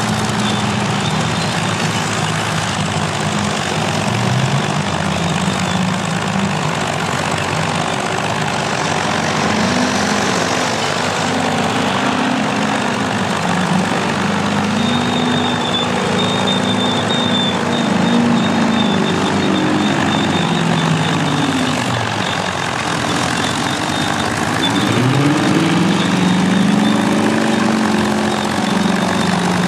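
Vintage heavy diesel earthmoving engines working under load, their pitch rising and falling as the throttle and load change: a direct-drive Caterpillar D9 crawler pushing a DW21 scraper. A faint high whine comes and goes over the engine sound.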